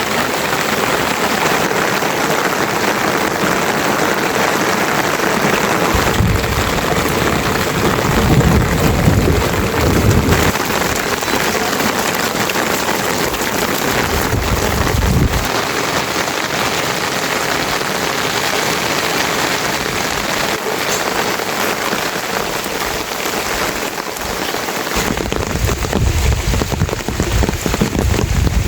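Steady, heavy rain falling and pattering on surfaces, with low rumbles swelling up a few times.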